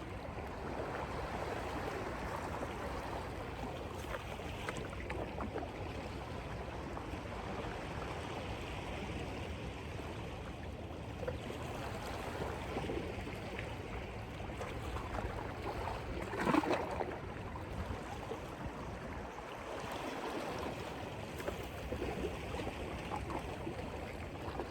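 Seawater washing and surging against the rocks, a steady wash, with one brief louder splash or surge about two-thirds of the way through.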